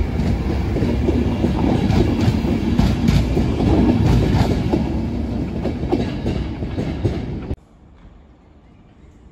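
Passenger train coaches passing close by at speed: a loud rumble with the wheels clacking over the rail joints. The sound cuts off suddenly about seven and a half seconds in, leaving only a faint background.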